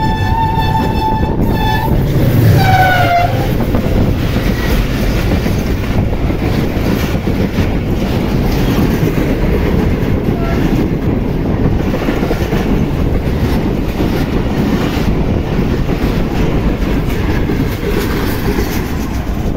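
A diesel locomotive's horn sounds a long steady blast, then a short blast that falls in pitch as the locomotive rushes past at speed. After that comes the continuous rumble of an express train's coaches passing close by, the wheels clattering over the rail joints.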